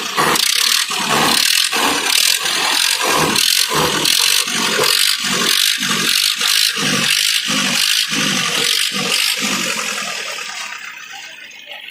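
Tractor diesel engines running hard under load with a rhythmic, pulsing chug, fading out near the end.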